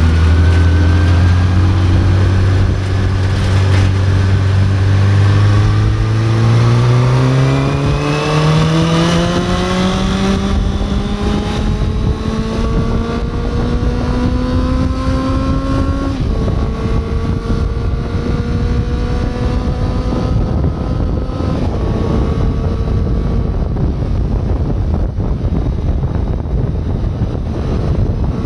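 Honda CB400 Super Four's inline-four engine accelerating through the gears. The pitch holds low, then climbs steadily for about ten seconds and drops abruptly at an upshift a little past halfway. It climbs gently again and steps down at a second shift near the three-quarter mark, over a rising rush of wind.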